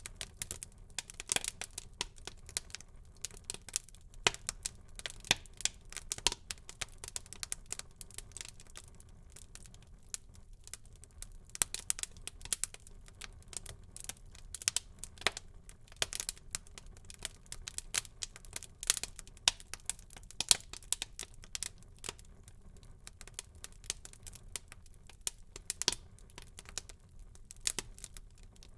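Wood fire burning in a fireplace: dense, irregular crackling with frequent sharp pops over a soft low rumble of flame.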